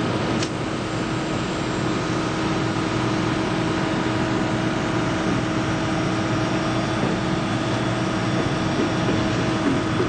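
Steady mechanical hum with several steady tones in it, with a single sharp click about half a second in.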